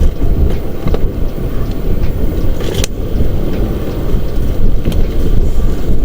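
Strong wind buffeting the microphone: a loud, unsteady low rumble, with a few sharp clicks, the clearest about three seconds in.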